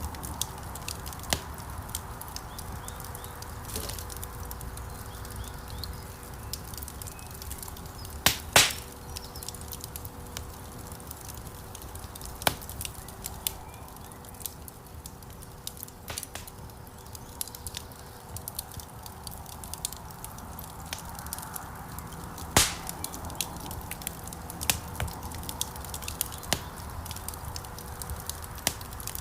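Wood logs burning in a fireplace: a steady low rumble of flames under scattered small crackles, with a few sharp, louder pops from the wood, a pair just after eight seconds in and one more about two-thirds of the way through.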